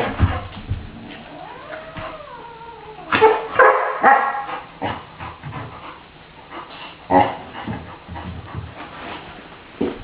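Saint Bernard puppy giving short play barks and yips, with a cluster of them about three to four seconds in and another near seven seconds. About two seconds in there is one long cry that rises and then falls in pitch.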